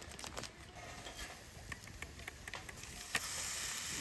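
Chijimi batter frying in an oiled cast-iron skillet: scattered pops and crackles, with the sizzle growing louder about three seconds in.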